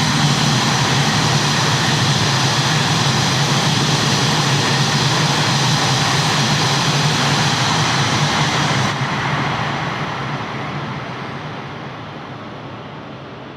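Tohoku Shinkansen train passing through a station at high speed without stopping: a loud, steady rushing noise that drops away after about nine seconds as the train recedes.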